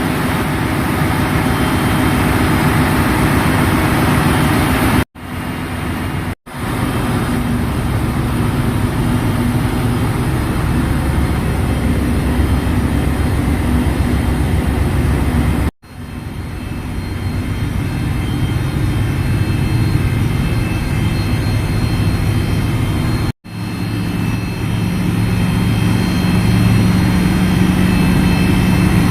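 Loud, steady machinery drone of a ship's engine room, a low hum with a constant background noise, cut off for an instant four times and resuming each time.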